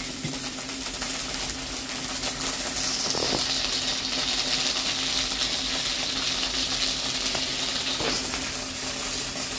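Ginger-cumin-chilli paste frying in hot oil in a metal kadai: a steady sizzle that grows stronger a few seconds in, over a low steady hum.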